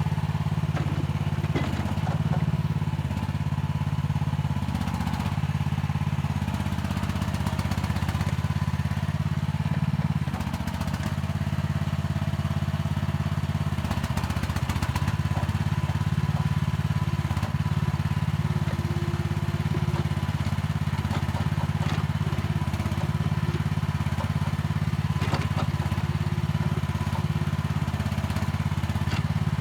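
Mini excavator's diesel engine running steadily under working load, swelling and easing a little as it digs, with a faint steady whine and scattered knocks and clatter from the bucket working the soil.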